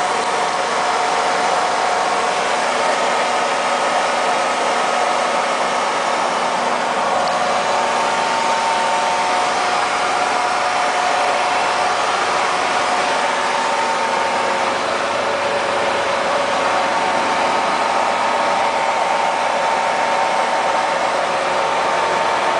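John Deere 8235R tractor's diesel engine running steadily at idle, a constant whirring hum.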